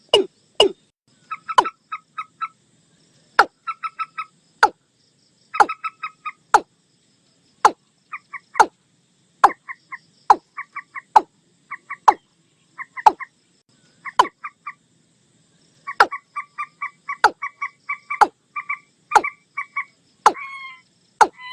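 Watercock and common moorhen calls mixed as a lure recording: single sharp, hollow low knocks repeat at irregular intervals, and between them come quick runs of four to six higher clucking notes. Near the end a few longer notes slide down in pitch.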